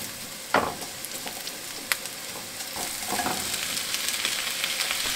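Sliced red and white onions sizzling in hot coconut oil in a frying pan as they start to brown, with a spatula stirring them and knocking on the pan a few times. About three seconds in the sizzle grows louder as halved cherry tomatoes are tipped into the pan.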